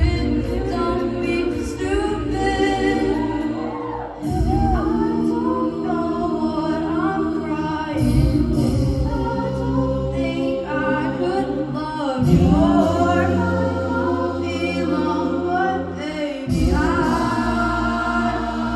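A cappella vocal group singing in close harmony over a sustained low vocal bass, the chords changing about every four seconds.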